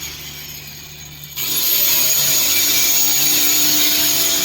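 Electric power tool motor running with a steady high whine; it drops off at first, then spins back up to full speed about a second and a half in.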